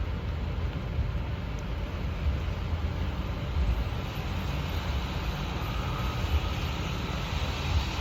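Wind buffeting the microphone with a steady hiss of tyres on a wet road, as when riding an e-bike in the rain. An uneven low rumble lies under the hiss throughout.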